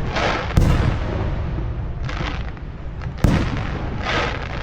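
Aerial fireworks shells bursting: two sharp, loud booms about three seconds apart. Between them come stretches of crackling hiss from shells going off.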